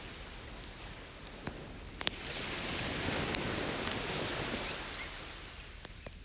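Ocean wave washing in, swelling about two seconds in and ebbing away near the end, over a campfire crackling with a few sharp pops.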